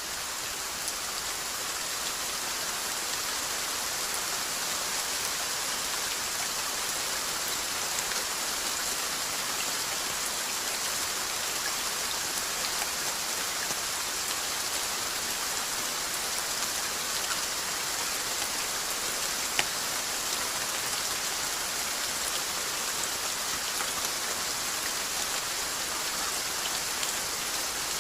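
Steady rainfall, an even hiss with scattered drop ticks and one sharper drip about two-thirds of the way through.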